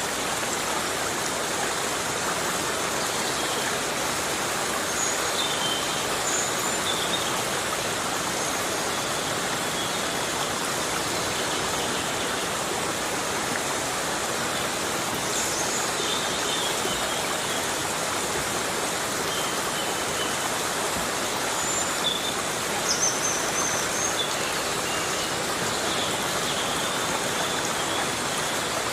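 Heavy rain falling steadily on rainforest foliage: an even rushing hiss with no let-up. A few faint, short, high chirps come and go through it.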